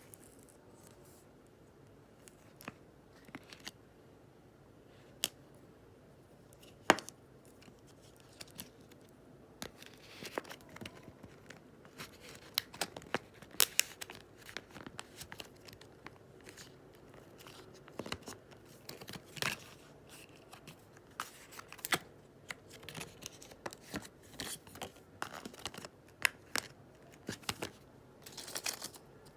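Scattered small clicks, snips and rustles of close-up handling, irregular and growing busier from about ten seconds in.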